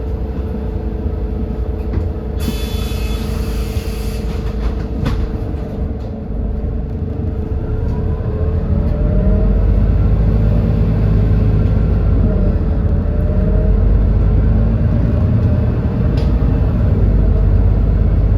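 GX12P natural-gas engine of a city bus heard from inside the cabin, running steadily, then growing louder from about 8 s in with rising whines as the bus gathers speed. A brief hiss of air comes at about 2 to 4 s.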